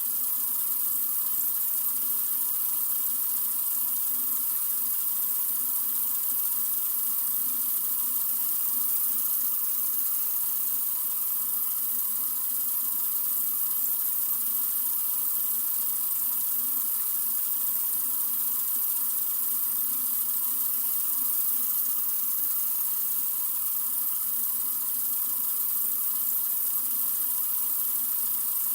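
Sink faucet running in a steady stream into the basin, an even, unbroken hiss of water.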